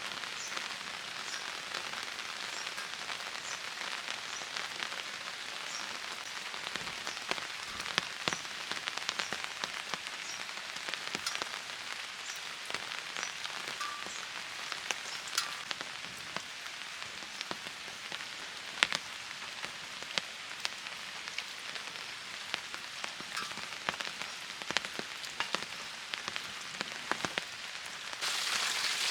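Rain falling steadily, with many sharp taps of drops striking hard surfaces. It gets suddenly louder near the end.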